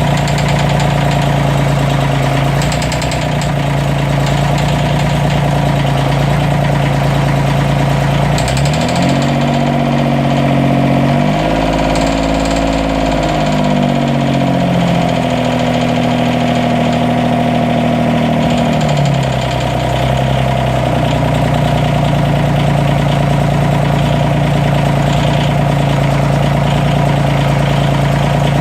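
Diesel engine of a 332 idling, revved up about nine seconds in, held at varying higher speeds, then dropped back to idle about twenty seconds in. It runs with an intermittent misfire and a loud clicking, which the owner takes for a head gasket leak among other faults.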